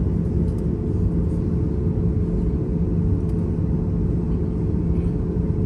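Steady low rumble of an airliner's engines heard from inside the passenger cabin, with an even low hum running through it, as the plane waits to take off.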